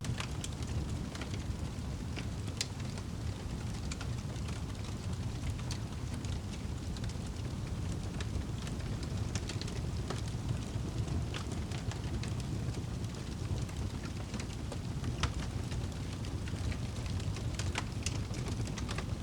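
Wood fire burning in a fireplace: a steady low rumble of the flames with sharp crackles and pops of the burning wood every second or so.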